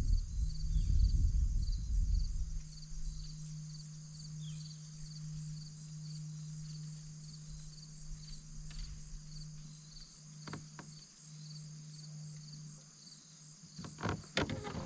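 Steady chorus of insects, a high, rapidly pulsing trill that runs on without a break. A low rumble sits under it for the first couple of seconds, and a few sharp knocks come near the end.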